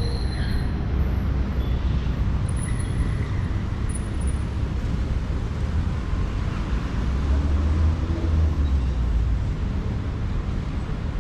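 Steady low rumble of city street traffic, swelling as a heavier vehicle passes about seven to nine seconds in.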